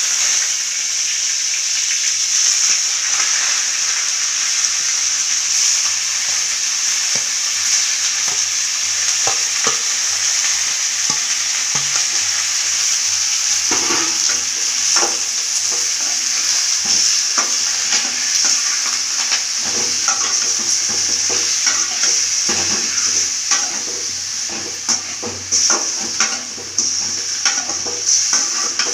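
Food sizzling steadily in hot oil in a pan, with a spoon scraping and knocking against the pan as it is stirred; the knocks come more often in the second half.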